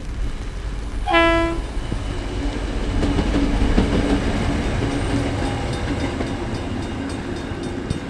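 A KiwiRail EF-class electric locomotive sounds a short horn blast about a second in, then its train rumbles past, the rumble and a low steady hum swelling toward the middle and easing off.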